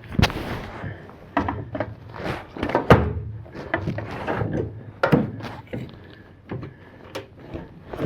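A string of irregular knocks and clunks, as of tools and pieces of wood being handled and set down, with two or three sharper hits among them.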